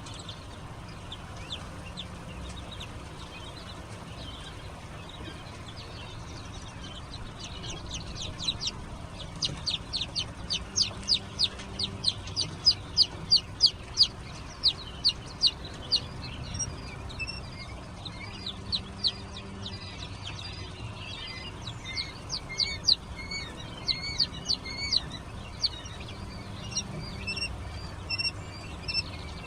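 Young chicks peeping: runs of rapid, high-pitched peeps, several a second, loudest in the middle, then scattered shorter chirps toward the end.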